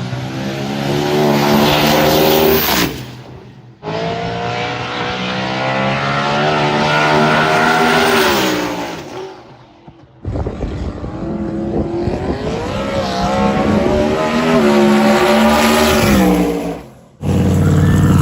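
Race vehicles accelerating hard down a drag strip at full throttle, the engine note climbing and then dropping away, in three short passes cut one after another.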